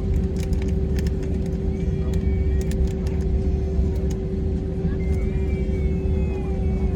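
Jet airliner cabin noise on the ground after landing: a steady low rumble with a constant hum from the engines and air system, with a few light clicks.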